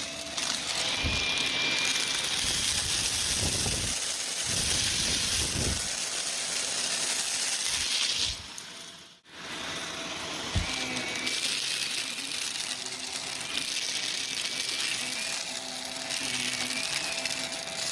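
Shark Navigator upright vacuum running with its brush roll on, a steady whine over a hiss of suction, with crunchy rattling and clattering of debris being picked up. The sound drops out briefly about nine seconds in, then carries on.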